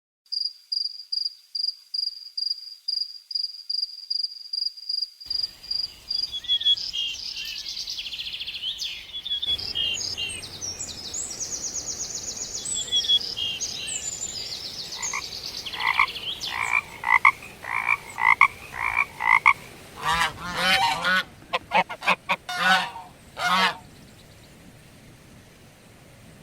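Frogs calling: runs of short, evenly repeated croaks that change in pitch and pattern several times, ending in a burst of rapid rattling croaks.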